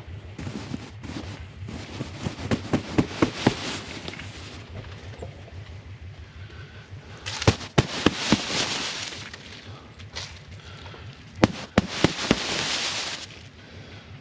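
Snow being knocked off a high tunnel's plastic cover. First comes a quick run of about seven sharp knocks. Then come two more bouts of knocks, each followed by a hiss of snow sliding down the plastic for a second or so.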